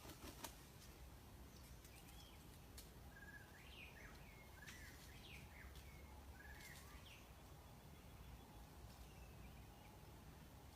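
Near silence with a few faint, short bird chirps in the middle stretch, against a low outdoor background hum.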